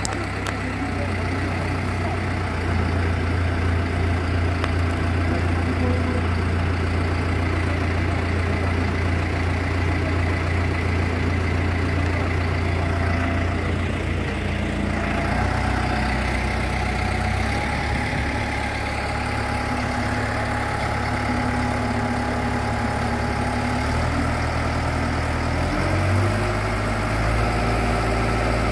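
An engine running steadily at idle, its speed stepping up slightly a few times in the second half.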